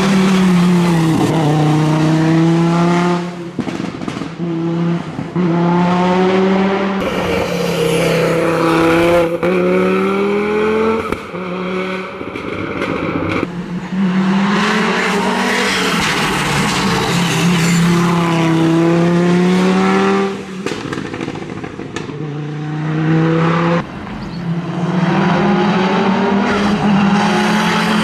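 Audi Quattro S1 rally car's turbocharged five-cylinder engine at full throttle on a stage. Its pitch climbs through each gear and drops at every upshift, with a few brief lifts off the throttle.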